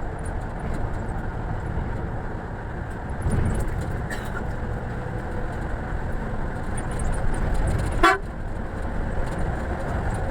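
Steady low rumble of a Scania coach running on the road, with one short horn toot about eight seconds in.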